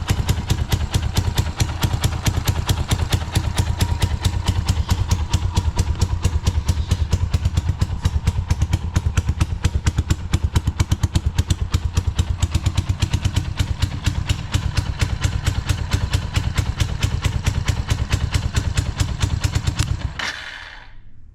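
Suzuki Grasstracker Big Boy's 250 cc single-cylinder engine idling through a Supertrapp megaphone full exhaust, a steady even beat of exhaust pulses, running with no abnormal noise by the seller's account. Near the end it is switched off and the sound cuts out suddenly.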